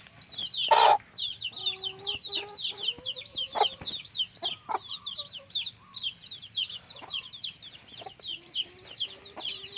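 A brood of chicks peeping constantly in short, high, falling notes, several a second, while a hen clucks low at intervals. One louder sharp sound stands out about a second in.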